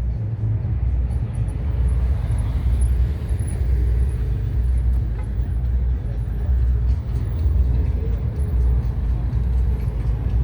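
Car-meet ambience: a low, uneven rumble of car engines running nearby.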